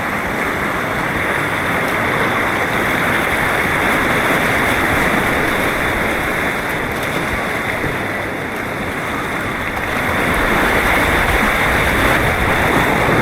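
Rushing white water churning steadily around a kayak, with a deeper rumble that grows louder about ten seconds in.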